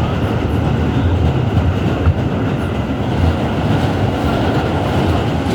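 R211S subway car running along the track, heard from inside the car: a steady, loud low rumble of wheels on rail, with a single sharp knock about two seconds in.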